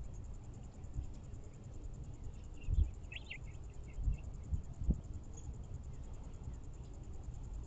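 Small songbird chirps, a short cluster of them around three seconds in, over a steady faint high-pitched pulsing buzz. A few low thumps are heard in the middle.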